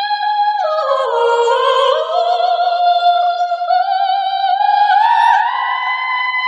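A male singer's high, wordless vocalise in head voice: a long held note that slides down about a second in, then climbs step by step to a higher sustained note near the end, with little or no accompaniment beneath it.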